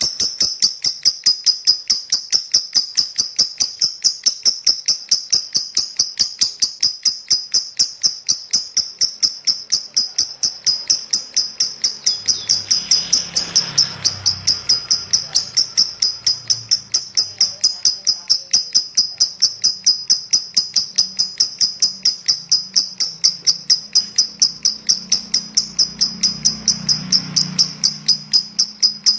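Lovebird in a long, unbroken ngekek: a rapid, high-pitched chattering chirp repeated evenly at about four notes a second, kept up without a pause. A faint low hum comes in briefly midway and again near the end.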